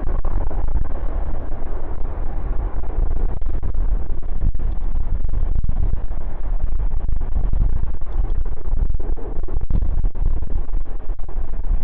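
Strong wind buffeting a phone microphone: a loud, continuous rush and rumble, heavily distorted and clipping, with brief dropouts throughout.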